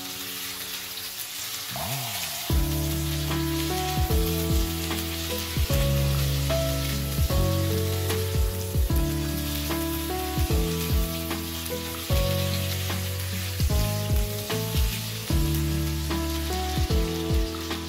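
Chicken pieces sizzling as they fry in melted margarine and chilli sauce in a wok, stirred and turned with a spatula. Background music plays over it, its bass line coming in a couple of seconds in.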